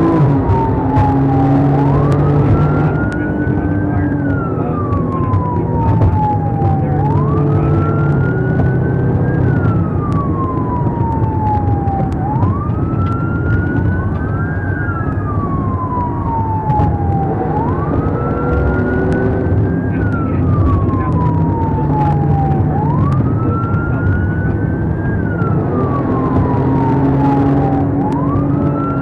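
Police car siren on its wail setting, each cycle rising quickly and falling slowly, about every five seconds, over the rumble of the vehicle driving.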